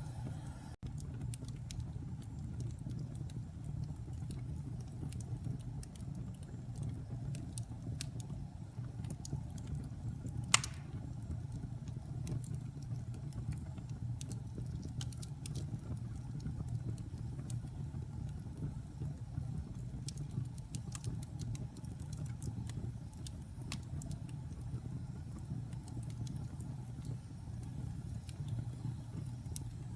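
Wood fire burning in a fireplace: a steady low rumble of flames with scattered small crackles and one louder pop about ten seconds in.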